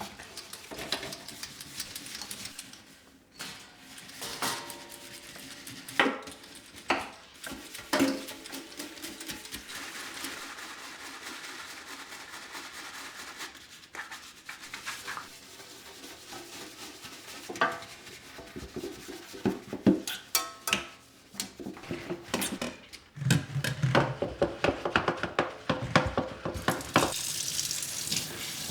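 Dishes and utensils being handled: irregular clinks and knocks with rubbing and scraping between them, busier near the end.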